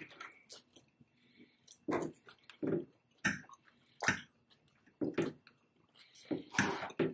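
Close-up eating sounds: chewing and wet mouth smacks in short, irregular bursts, roughly one a second.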